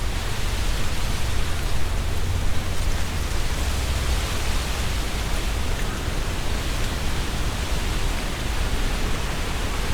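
Strong wind blowing through trees, the leaves rustling steadily, with a strong low rumble underneath.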